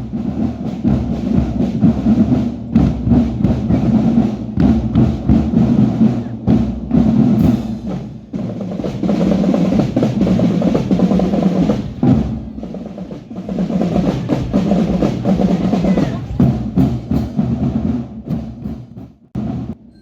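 School drum band playing, with snare and bass drums beating in a dense, driving rhythm and brief pauses between phrases.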